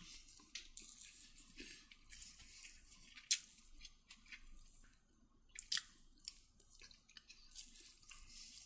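Faint close-up eating sounds: a person chewing food, with a few sharp clicks, the clearest about three seconds and about six seconds in.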